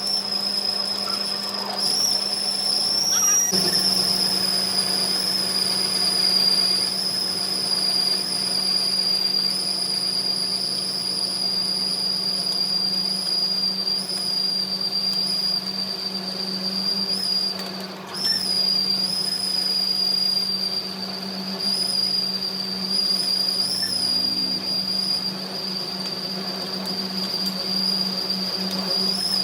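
A machine running steadily with a high-pitched whine over a low hum, with brief dips about three and a half and eighteen seconds in.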